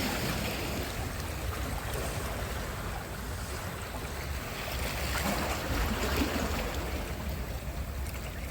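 Sea surf washing onto a beach: a steady wash of waves that eases after a wave breaks and swells again about five to six seconds in, with some wind on the microphone.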